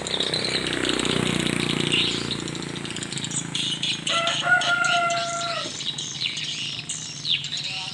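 Swiftlets twittering, with many quick high chirps and short falling calls overlapping throughout, and a rush of wingbeats in the first couple of seconds. About four seconds in, a steady pitched tone sounds for about a second and a half.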